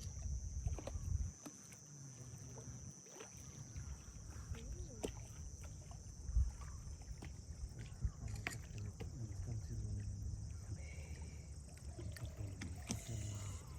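Canoe being paddled along a river: water sounds from the strokes with occasional sharp knocks, over a steady high-pitched hum and a low rumble.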